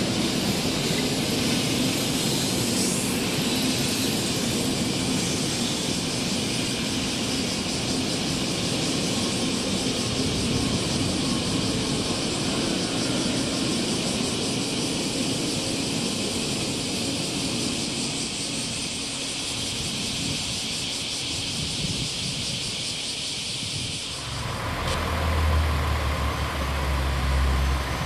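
N700-series Shinkansen passing on the viaduct, a long steady rush of train noise. About 24 seconds in, this gives way to the deep, steady rumble of a KiHa 47 diesel railcar's engine running.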